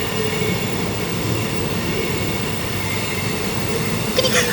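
Moving commuter train heard from inside the carriage: a steady running rumble and rattle, with faint thin high squealing tones from the wheels on the rails.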